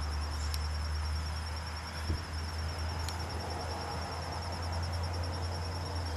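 Steady insect trill: one high, evenly pulsing note that carries on without a break, over a steady low rumble. A single soft knock about two seconds in.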